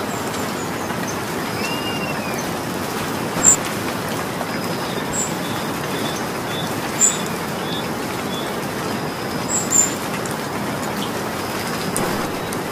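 Steady rain falling, a continuous even hiss. Birds chirp now and then over it: short high chirps every couple of seconds and a quick run of notes in the middle.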